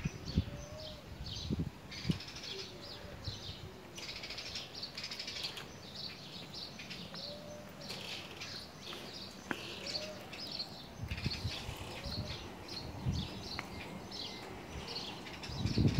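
Small birds chirping continuously, with several short, low curved calls in between. Low rumbling thumps come near the start and again in the last few seconds.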